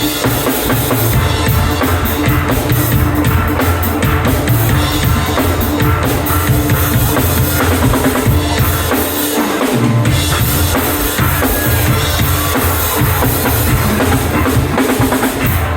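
Steel band playing: steel pans carry the melody over a drum kit with a steady bass-drum beat and snare.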